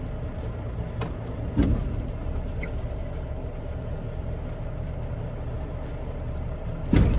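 Semi-truck diesel engine running steadily, heard from inside the cab, with a thump about a second and a half in and another near the end.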